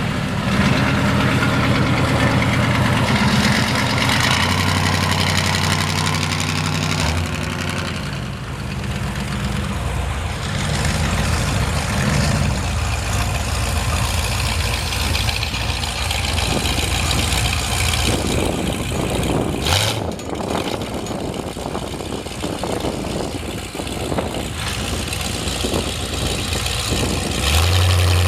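Truck engine idling, its note stepping up and down now and then, over a steady hiss.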